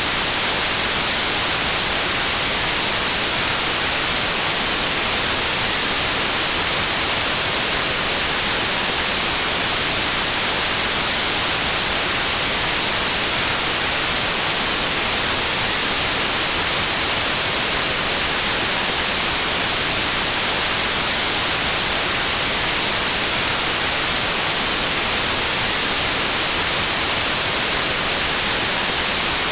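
White noise: a steady, even hiss, strongest in the high end, with no change throughout.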